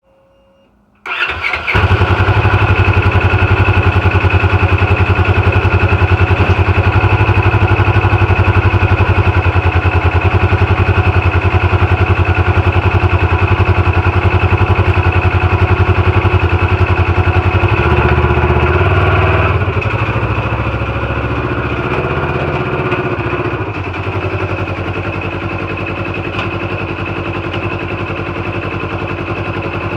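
Polaris RZR XP 900's parallel-twin engine cranking briefly and catching about a second in, then idling steadily on the stock exhaust. The stock header is cracked, so the exhaust is a little louder than normal. Past the middle the idle drops a little in level and settles lower.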